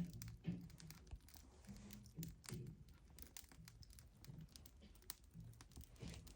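Faint, irregular crackling and small snaps of a wood fire burning in a fireplace.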